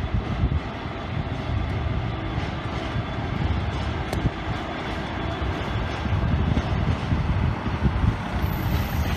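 Train running past, a steady rumble; a thin high whine comes in near the end.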